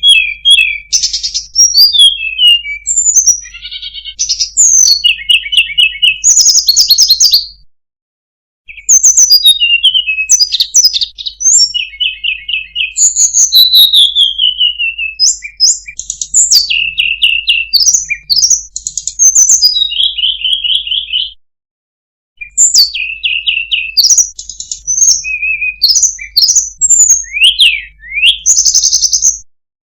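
Sunda robin (tledekan gunung) singing a loud, varied song of quick chirps, rapid trills and whistled up- and down-slides, in long phrases broken twice by brief pauses.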